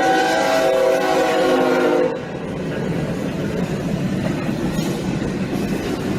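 A loud horn held as a steady chord, cutting off about two seconds in, followed by a steady rumbling noise.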